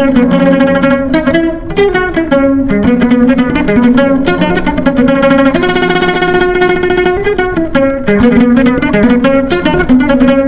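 Instrumental music played on a plucked string instrument, with quick picked notes and a longer held note about halfway through.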